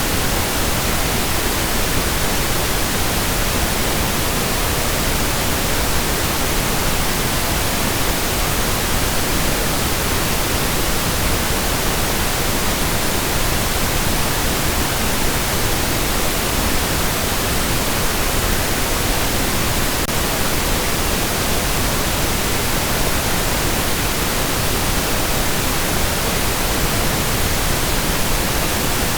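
Steady pink noise: an even hiss across all pitches that never changes in level.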